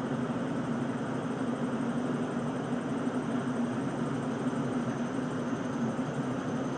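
Ship's engines and machinery running as a steady drone with a low hum, unchanging while the vessel moves astern to its berth.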